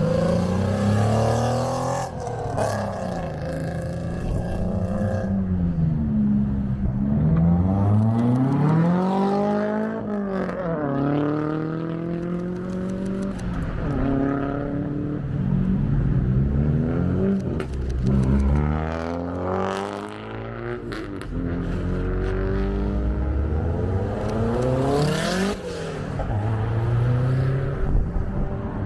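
Car engines revving, their pitch climbing and dropping again many times.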